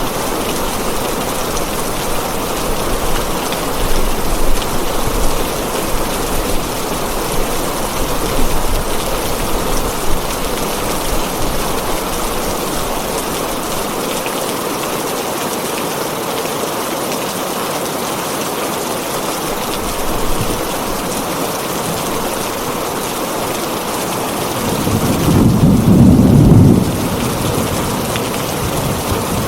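Heavy rain drumming steadily on a tin roof, with a low roll of thunder about 25 seconds in that swells for a couple of seconds.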